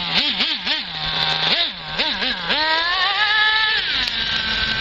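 Small nitro engine of an RC buggy (Toki .27) blipped up and down in short quick revs, about seven, then throttled up into a higher, held whine for about a second before easing off.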